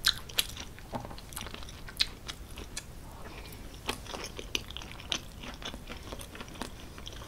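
Close-miked chewing of a mouthful of creamy tortellini pasta with bacon and vegetables, with many small, irregular sharp mouth clicks.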